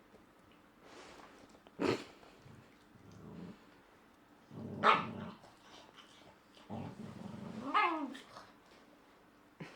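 Shiba Inu dogs growling and giving short sharp barks in three bursts over a beef stick chew: a quick yip about two seconds in, a louder growl-bark around five seconds, and a longer grumbling growl near the end that breaks into a falling whine.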